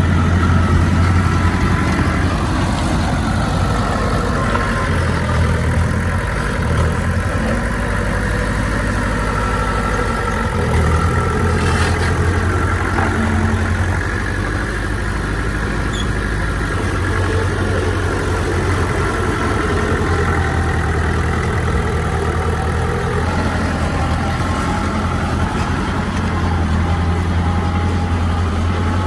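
Heavy diesel engine of earthmoving machinery running steadily with a deep low hum, its pitch and load shifting a little as it works. A short sharp tick sounds about twelve seconds in.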